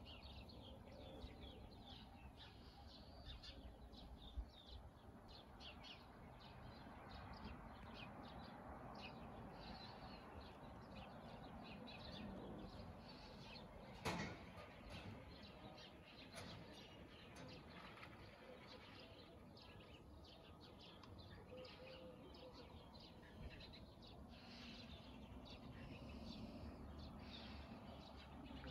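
Quiet outdoor street ambience: faint, scattered chirping of small birds over a low steady hum. A single sharp click about halfway through is the loudest sound.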